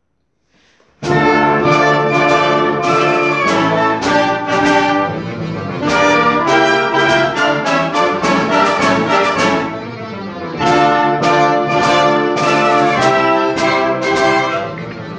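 Small student wind band, brass to the fore (trumpets, trombones, horns), bursting into a march about a second in after silence and playing on with strong, accented chords.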